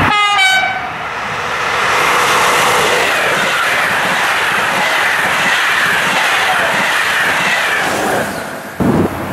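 Loco-hauled passenger train passing close by: a French diesel locomotive, then its Corail coaches rolling past with steady wheel-on-rail noise and faint squealing tones on the curve. The rolling noise cuts off sharply about a second before the end as the last coach clears, leaving wind on the microphone.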